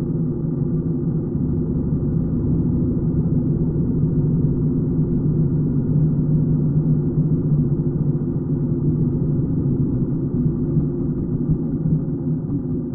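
A 1941 BMW R75's flat-twin engine runs steadily at an even pitch, with no rise or fall in revs.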